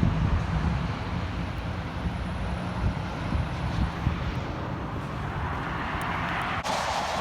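A passing vehicle: steady low rumble with a hiss that swells about five seconds in as it draws closer.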